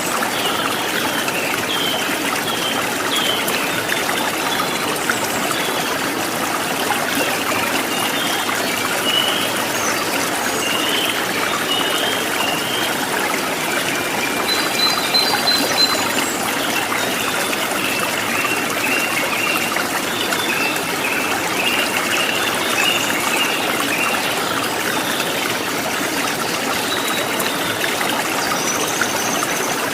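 Running stream water flowing steadily, with small birds chirping over it throughout.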